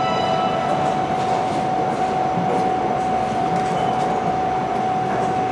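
Hanshin Railway electric train rolling into the station: steady running noise of the train on the rails, with one steady whine held throughout and faint scattered clicks.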